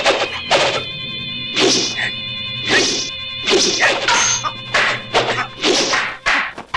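Fight sound effects of wooden staffs striking: about ten sharp whacks at uneven intervals, over sustained background film music.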